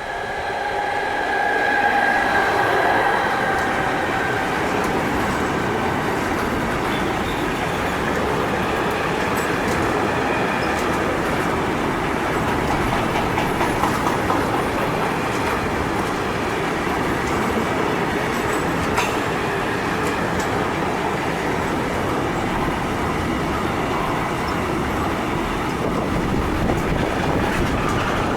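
A train passing through a station: a loud, steady rumble of wheels on the rails with scattered clicking, swelling over the first two seconds and then holding. A few high steady tones sound near the start.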